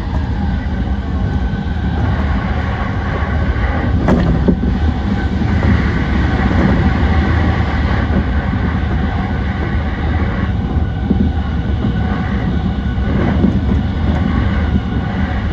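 E235-1000 series electric train running at speed: a steady rumble of wheels on the rails, with two sharper clacks from rail joints about four and thirteen seconds in.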